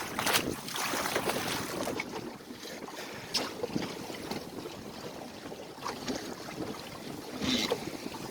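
Water splashing and rushing along the hull of a small sailboat under way in choppy water, in irregular slaps, with wind buffeting the microphone.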